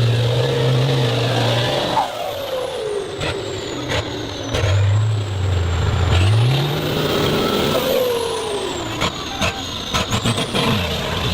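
Heavy motor-vehicle engines running and revving under load, the low engine note stepping up in pitch, with a high whine rising and falling over it. A quick cluster of sharp clicks or knocks comes near the end.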